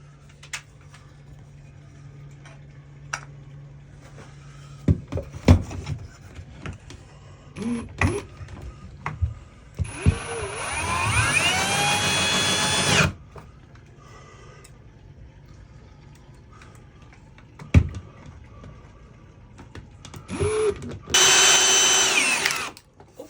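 Power drill boring through old, hard wood in two runs, the first about three seconds long and the second near the end. Each run rises in pitch as it spins up, then holds steady. Short knocks and clunks come between the runs.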